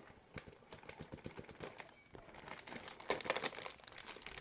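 Plastic bag crinkling and rustling as it is handled and filled, with a denser run of crinkles about three seconds in.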